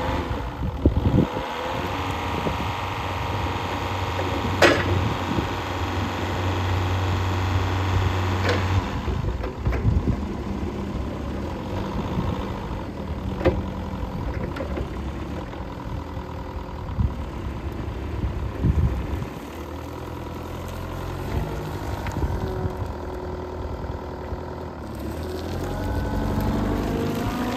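Linde H30D diesel forklift engine running, its speed rising for several seconds and then settling back, with a few sharp clunks along the way.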